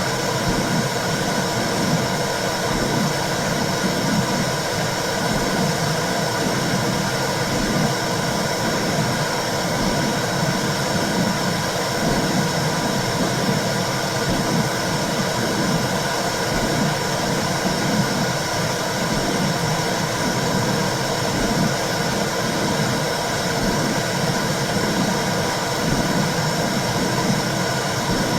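Womb sound for soothing babies: a steady whooshing noise with a faint, regular pulsing in the low range.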